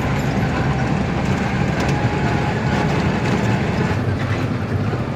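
Truck's diesel engine running steadily under way, a low hum with road noise.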